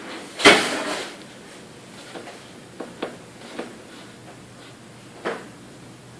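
DJI Zenmuse H3-3D camera gimbal making an odd knocking noise: a loud clatter about half a second in, then scattered, irregular clicks over a faint steady hum. The owner treats these clicks as abnormal for the gimbal.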